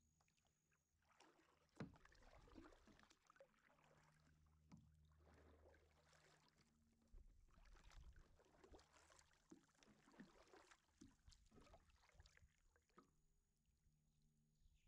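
Faint kayak paddle strokes: the blades dipping and splashing in the water with drips in between, starting about a second in and stopping near the end.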